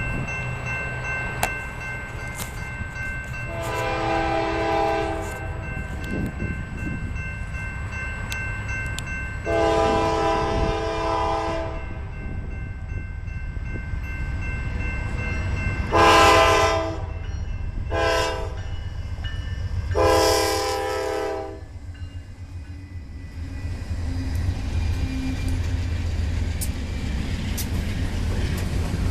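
Diesel freight locomotive's multi-note air horn sounding the grade-crossing signal, two long blasts, two short and a final long, over the steady rumble of the locomotives' diesel engines: the warning for the road crossing the train is approaching.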